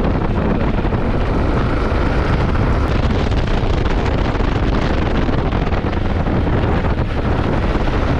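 Wind buffeting a GoPro's microphone on a moving motorcycle, a steady loud rushing noise with the bike running underneath.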